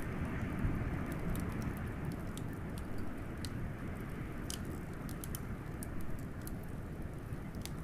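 A wood fire crackling with irregular sharp pops over a steady, low rush of wind.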